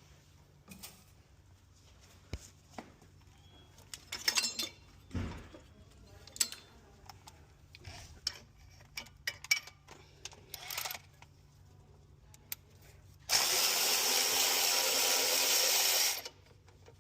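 Scattered clanks and knocks of tools and metal parts, then a power tool running steadily for about three seconds near the end before cutting off.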